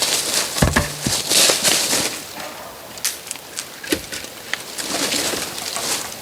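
Oak firewood being split: three heavy blows, two close together about a second in and one more about four seconds in, with rustling and scraping of wood between.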